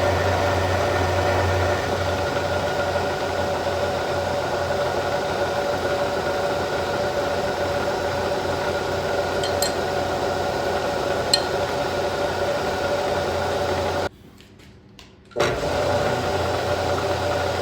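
Milling machine running steadily, taking a facing pass to cut flats on a control rod, with a constant hum and whine. The sound cuts out for a little over a second near the end, then resumes.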